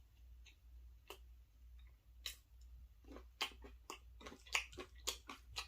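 A person chewing food close to the microphone, with moist mouth clicks: a few scattered ones at first, then a quick run of them from about halfway in.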